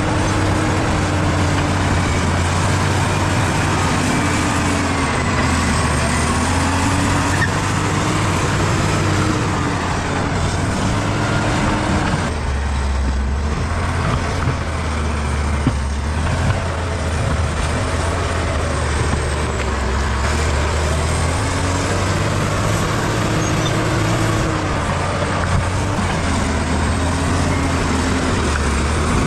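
Bulldozer's diesel engine running under load, its note rising and falling as it works, with a faint high whine above the steady drone.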